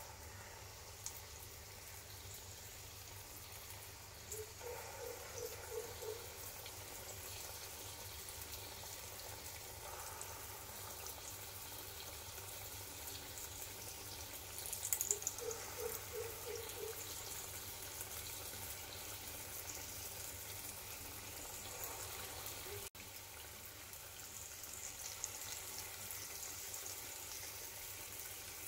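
Urad dal batter fritters (dahi vada boras) frying in hot oil in a kadai: a steady sizzling hiss with scattered crackles, louder for a moment about 15 seconds in. A few short runs of faint chirps sound in the background.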